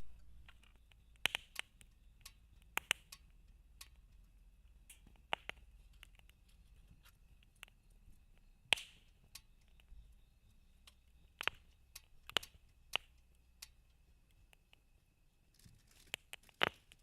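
Wood campfire crackling, with sharp irregular pops every second or two.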